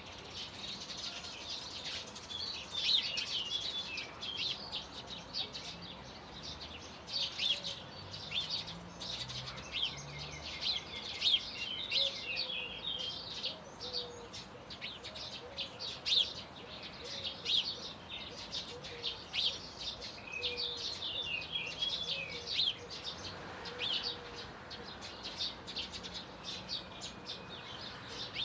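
Songbirds chirping and singing: a dense, continuous chorus of short, high calls.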